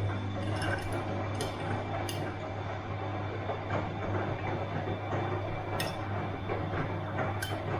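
Bosch washing machine running: a steady low motor hum and the churn of the tumbling drum, with scattered sharp clinks and knocks every second or two.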